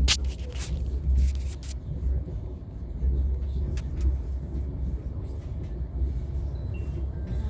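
Low rumble of a passenger train running, heard from inside the carriage, with a few sharp knocks in the first second or two.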